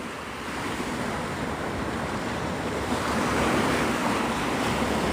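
Gulf surf washing onto the beach, a steady rushing that swells about three seconds in, with wind rumbling on the microphone.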